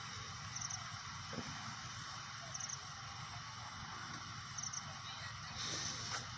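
Faint steady background hiss with an insect chirping: a short high chirp of three quick pulses, repeating about every two seconds. A few soft taps can be heard.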